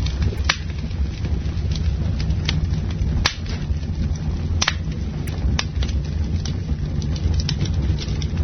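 Campfire burning with a steady low rumble and irregular crackles and pops, a few of them sharper, about a second and a half apart around the middle.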